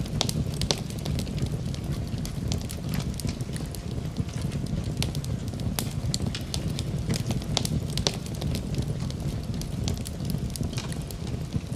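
Wood fire in a fireplace crackling, with frequent sharp pops at irregular intervals over a steady low rumble of the burning fire.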